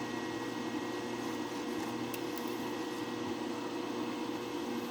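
Steady electrical hum with an even hiss, as from a running machine or fan, unchanging throughout.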